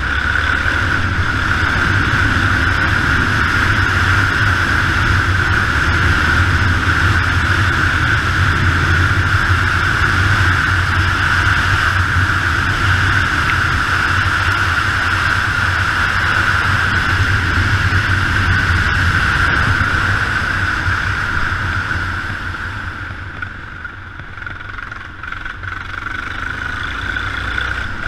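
Yamaha XT 600 single-cylinder engine running under way as the motorcycle is ridden, mixed with steady wind and road noise. It eases off briefly about three-quarters of the way through, then picks up again.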